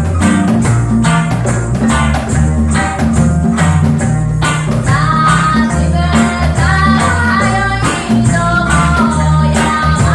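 Live reggae band playing: bass line and a steady off-beat rhythm of plucked strings and percussion. A singing voice comes in about halfway through.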